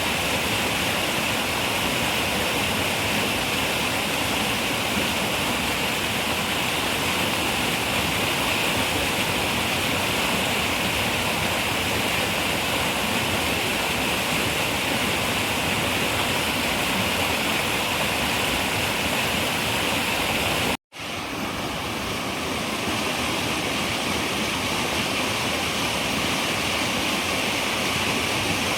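Steady rushing of a flowing river. About two-thirds of the way through, the sound cuts out suddenly for an instant and then fades back in over about a second.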